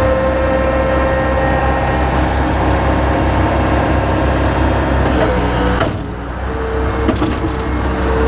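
Bobcat 853H skid steer engine running steadily. About six seconds in the sound dips briefly and changes, then carries on steadily.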